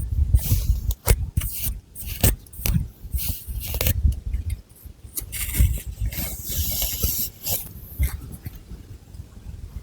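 Long fingernails scratching and rubbing through thick hair and over the scalp in quick, irregular strokes, with dull low thuds among them. The strokes grow softer near the end.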